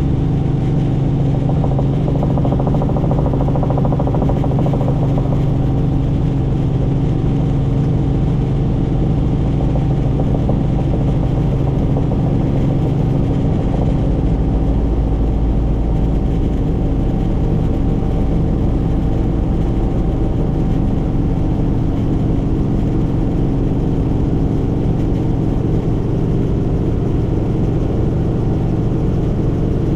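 Helicopter in flight: a steady turbine-and-rotor drone with a constant pitched hum, its low tone shifting slightly about halfway through.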